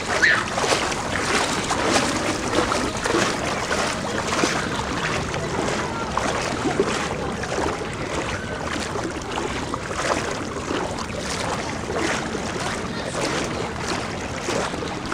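Floodwater sloshing and splashing in irregular strokes, like people wading through knee-deep water.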